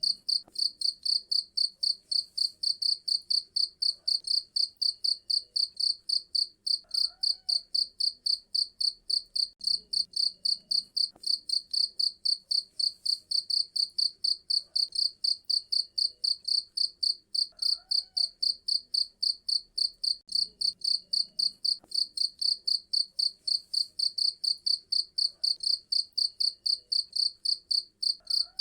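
A cricket chirping steadily, a regular train of high-pitched pulses at about four a second. A faint, short, lower call recurs roughly every eleven seconds.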